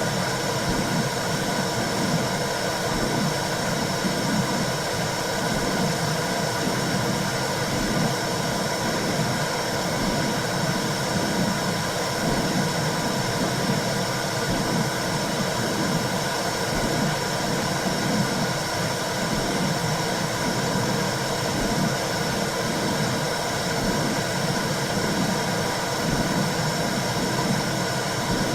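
Womb sound for soothing a newborn: a steady whooshing noise with a low pulse that repeats about once a second.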